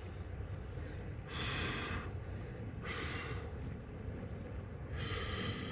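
A man breathing hard in three short, forceful breaths, about a second and a half apart, while straining to lift a heavy stone, with a steady low rumble underneath.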